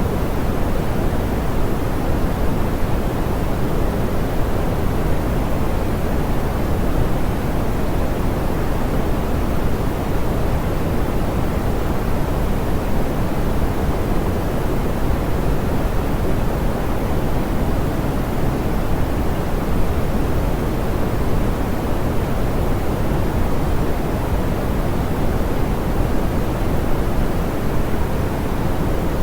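Steady, soft pink noise: an even rushing hiss weighted toward the low end, with no changes.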